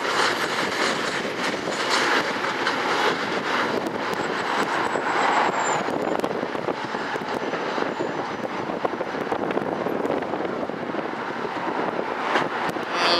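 Metra commuter train rolling past: a steady rumble of wheels on rail, with many quick clicks and clatters.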